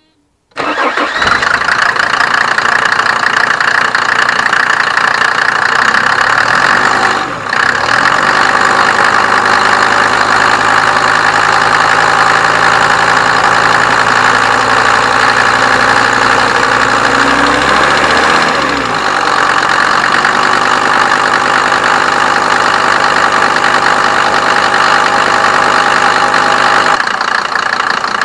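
1987 Mercedes 190D's 2.5-litre five-cylinder turbo diesel idling steadily while running on Diesel Purge injector cleaner. Its speed shifts briefly about seven seconds in and again near eighteen seconds.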